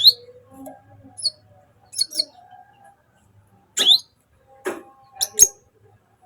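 Sunbird giving short, sharp high chirps, each a quick downward sweep, about six of them spaced unevenly.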